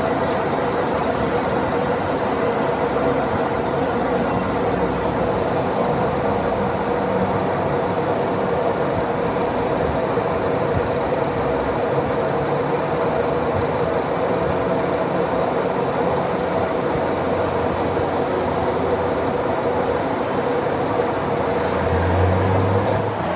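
Metal lathe running steadily, its motor and gearing making an even mechanical drone with a few steady tones. A few brief, faint high squeaks occur about six seconds in and again near two-thirds of the way through.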